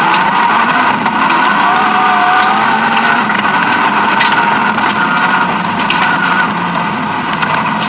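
BMW E36 M3 rally car's engine running hard at high revs, heard from inside the cabin. Its pitch dips briefly about two seconds in and climbs again, with several sharp clacks from the car over the road.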